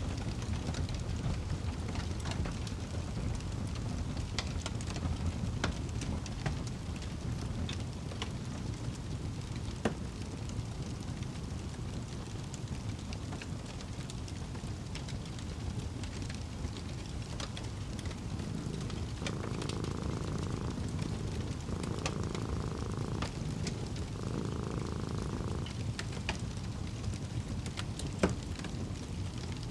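Wood fire crackling with scattered sharp pops over a steady low rumble, with a cat purring in three breaths about two-thirds of the way through.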